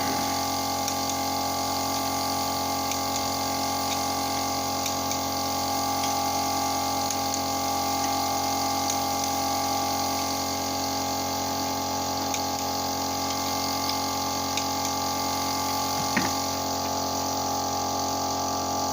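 A steady machine hum made of several fixed tones, with a few faint clicks and a single sharper knock about sixteen seconds in.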